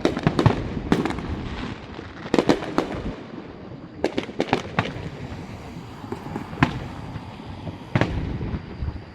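Aerial fireworks going off: clusters of sharp bangs, each trailing off in a rolling echo, coming in bursts for the first five seconds and then thinning to two single booms near the end.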